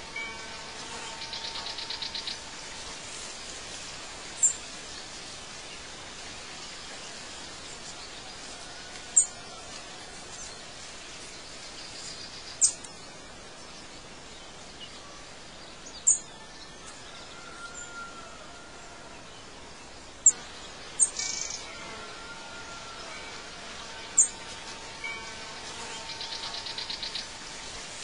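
Birds chirping over a steady hiss: a sharp, short high chirp every few seconds, and a rapid trill twice, near the start and near the end.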